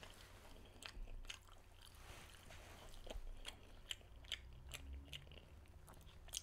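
A person chewing and biting food, heard as a scatter of short, soft clicks.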